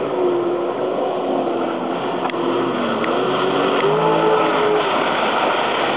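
Jet ski engine running as it skids and turns on the water, its pitch dipping about halfway through and rising again.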